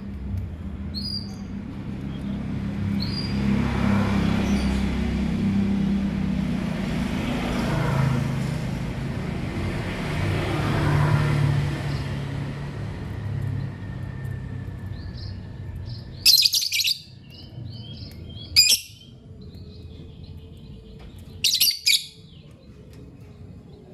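Lovebirds chirping: a few thin chirps early, then, over the second half, soft chattering broken by four short, shrill screeches. A low rumble swells and fades under the first half.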